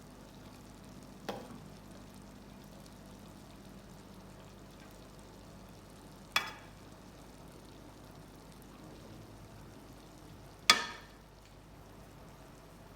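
Food sizzling faintly in a pot while it is stirred, with three sharp knocks of a utensil on the pot, each ringing briefly. The last knock is the loudest.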